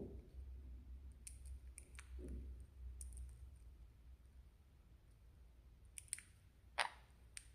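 Sun conure's beak working at a snack: a few faint, scattered sharp clicks, with one louder click near the end.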